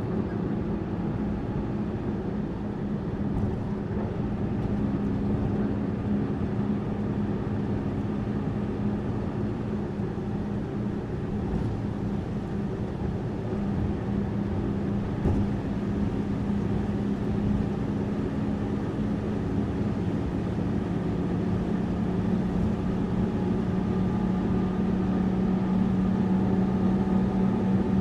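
Tourist bus engine running steadily with road noise, heard from inside the bus, its low hum growing slightly louder near the end.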